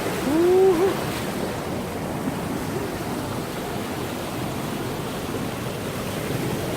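Mountain stream rushing steadily over rocks, with a man's short wordless exclamation about half a second in as he steps into the icy water.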